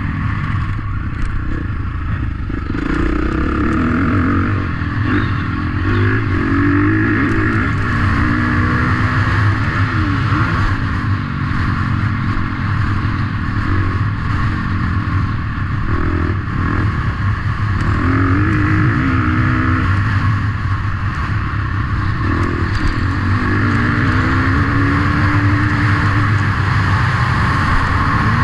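Motocross motorcycle engines running continuously, the revs rising and falling again and again.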